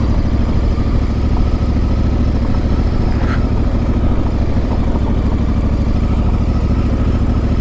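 Honda Africa Twin motorcycle's parallel-twin engine running steadily on the move.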